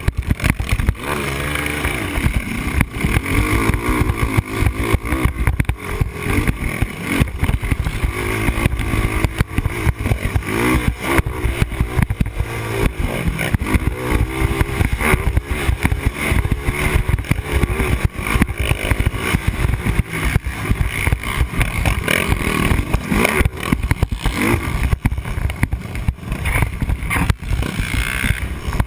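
Yamaha Raptor 250 ATV's single-cylinder four-stroke engine revving up and down under hard riding, with rough wind noise and knocks on a helmet camera.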